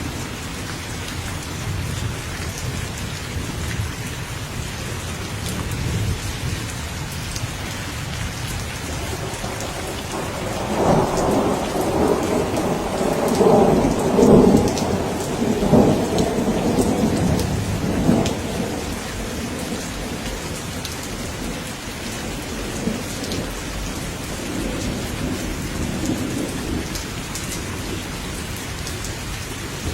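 Steady heavy rain falling, with a long rolling thunder rumble that builds about ten seconds in, peaks in the middle and fades out, and a weaker rumble later on.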